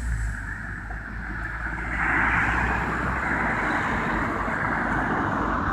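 Scania CN310UB city bus with a compressed-natural-gas engine: a low engine rumble that eases over the first couple of seconds, joined about two seconds in by a steady hiss of road and tyre noise.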